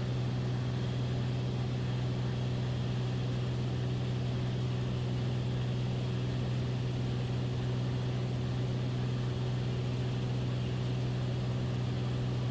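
Beechcraft Bonanza's piston engine and propeller droning steadily in the cockpit during cruise on the approach, with an even low hum and no change in power.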